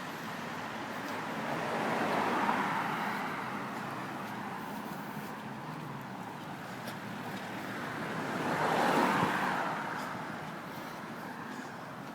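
Road traffic: two cars passing by, each swelling and then fading, the first about two seconds in and the second, a little louder, near nine seconds, over a steady traffic hum.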